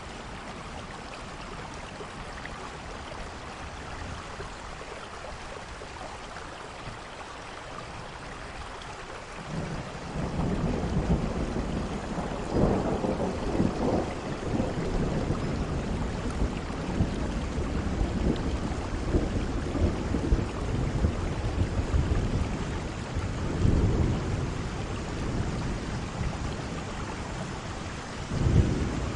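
Steady heavy rain hissing. About ten seconds in, a long rolling rumble of thunder sets in and goes on in swells, with another loud thunder surge near the end.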